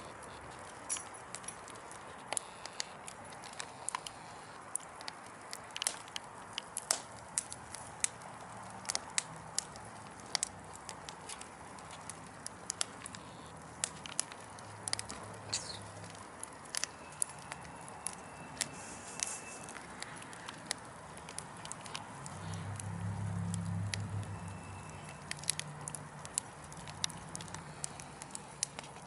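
Wood fire burning in a fireplace, crackling with many sharp, irregular pops over a steady hiss. A low rumble swells briefly about 22 seconds in.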